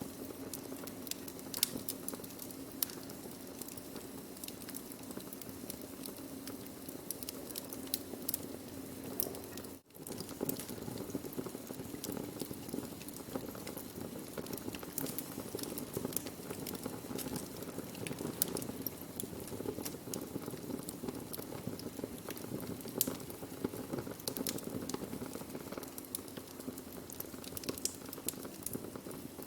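Wood fire burning with a steady hiss and irregular sharp crackles and pops. The sound drops out for an instant about ten seconds in.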